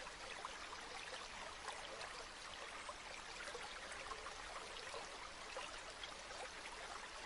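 Faint, steady flowing water of a river or stream, an even babble with small splashes and no pauses.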